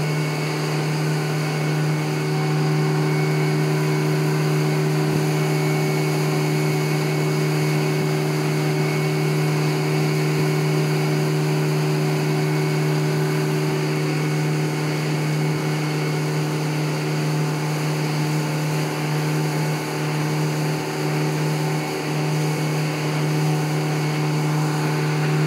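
Fishing boat's engine running steadily under way, a constant low hum with a steady pitch and level.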